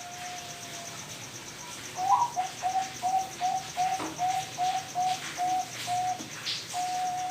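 Bangkok-strain zebra dove (perkutut) cooing. A long held note is followed by a run of about a dozen short staccato coos, roughly three a second, and then another long drawn-out note. A faint, steady insect trill runs high above it.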